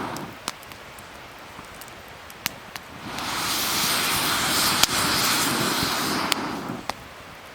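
Wood fire crackling with scattered sharp pops. A loud rushing whoosh builds about three seconds in, holds, and dies away near the end.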